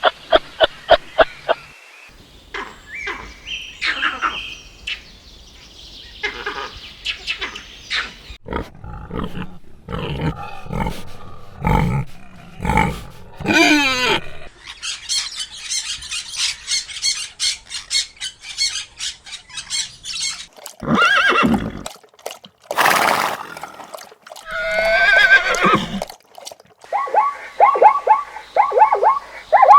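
Different animal calls one after another, the kind of call changing every few seconds, with a horse whinnying among them.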